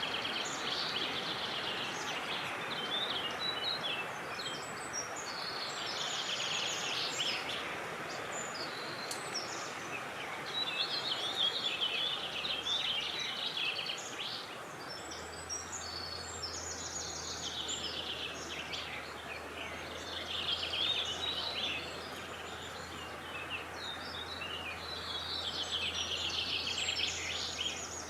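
Birds singing outdoors, with quick, high, chirping song phrases repeated every few seconds over a steady rush of wind.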